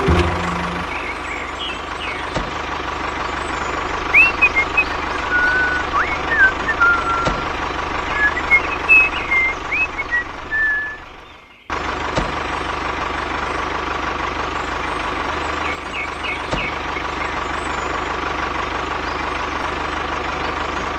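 Steady whine of a DIY mini tractor's small motor running continuously, with short high chirps between about four and ten seconds in. The sound drops away briefly just before the middle and comes straight back.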